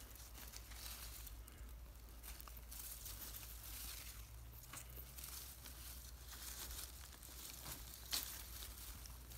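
Faint rustling and crackling from close handling, with one sharper crack about eight seconds in.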